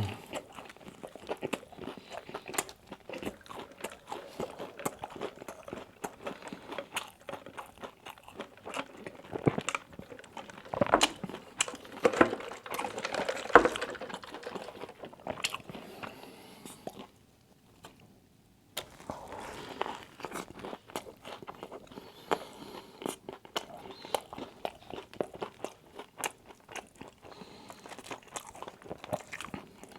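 Close-miked eating: a person biting and chewing crunchy food, many crisp crunches and wet chewing clicks. The crunching gets louder and denser a little before the middle, then breaks off for a moment before going on.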